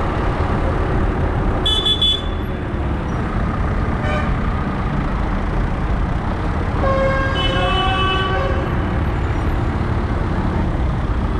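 Steady low rumble of tractor engines on the road, with a short horn toot about two seconds in and a longer horn blast about seven seconds in.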